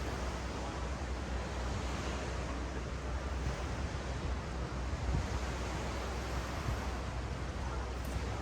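Ocean waves washing steadily on a sandy beach, with a low wind rumble on the microphone.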